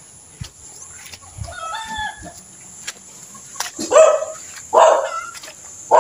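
Rooster crowing faintly about two seconds in, then two louder short calls near the end.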